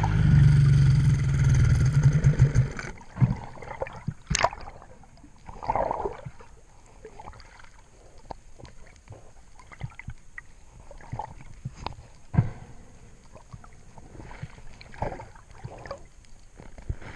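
A steady motor-like hum that cuts off suddenly about three seconds in, followed by water gurgling and scattered clicks and knocks, as heard by a camera in the water.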